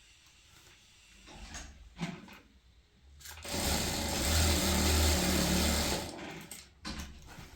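Sewing machine running a short burst of stitching for about three seconds, starting a little after three seconds in, with a few light knocks before and after it.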